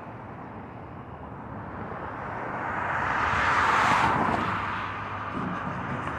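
A vehicle passing close by: a rushing noise swells to a peak about four seconds in and then fades, over a steady low hum.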